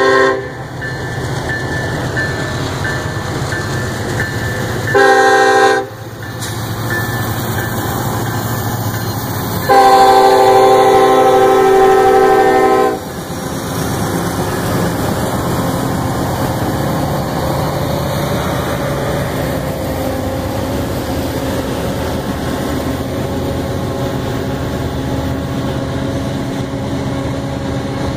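Norfolk Southern freight train passing with its diesel locomotives sounding the air horn: the end of one blast right at the start, a short blast about five seconds in and a long blast from about ten to thirteen seconds, over the engines' rumble. After that, covered hopper cars of a grain train roll by with steady wheel noise on the rails.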